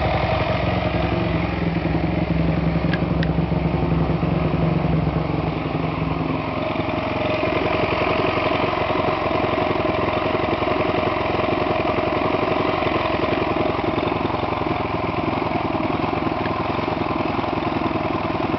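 2008 Yamaha YZ450F's single-cylinder four-stroke engine running steadily at idle, with a steady whine over the engine note. The lower part of the engine note eases a little about six seconds in.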